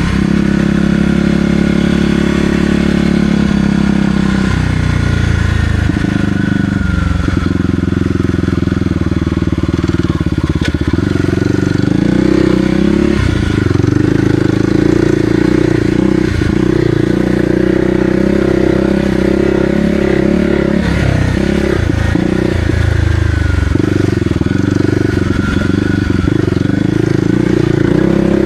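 Kawasaki KLX300R dirt bike's single-cylinder four-stroke engine running while riding a trail, its pitch rising and falling as the throttle opens and closes.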